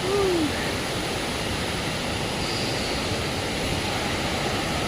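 Steady rushing roar of a waterfall in full monsoon flow, with a brief voice sound right at the start.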